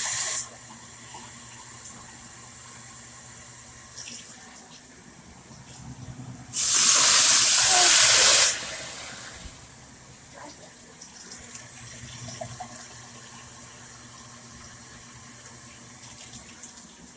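Kitchen tap running into a pot, filling it with water: the flow stops about half a second in, then runs again for about two seconds a little past the middle.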